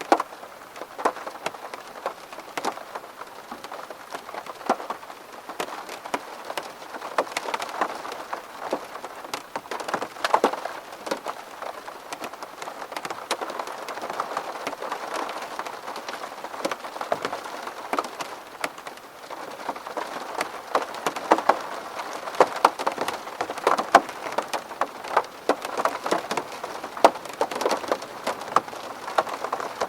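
Rain falling on window glass: a steady wash of rain with many individual drops ticking sharply and irregularly against the pane.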